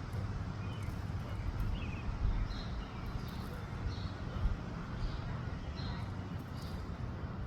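Wind buffeting the microphone with a steady low rumble, while a bird gives short high chirps about once a second.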